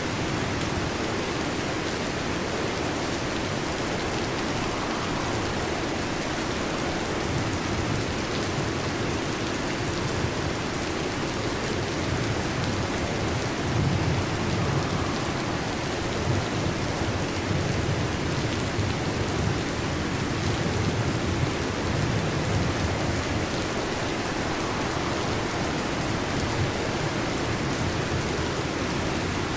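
Heavy rain falling steadily on a metal roof, with a low rumble of thunder swelling through the middle.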